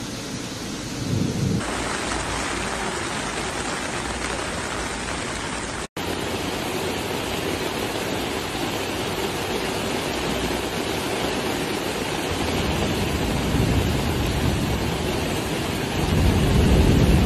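Torrential rain pouring and floodwater rushing, a steady dense hiss. It cuts out for an instant about six seconds in and grows louder and deeper near the end.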